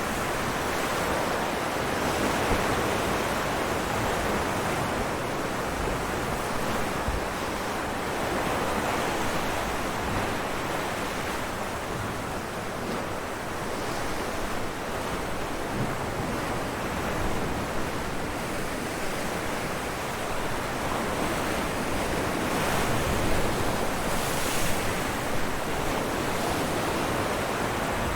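Ocean waves breaking on rocks: a continuous rush of surf that swells and eases, with a few sharper splashes about three-quarters of the way through.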